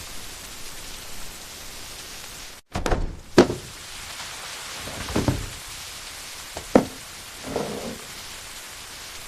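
Steady rain, with a series of about five knocks and thuds over the middle of the stretch, the sharpest a little after three seconds and near seven seconds in. The rain cuts out for an instant just before the first knock.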